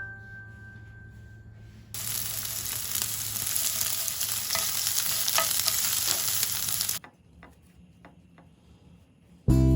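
Food sizzling in a hot frying pan, a dense hiss with a few light clicks. It starts about two seconds in and cuts off suddenly about five seconds later, leaving faint clicks.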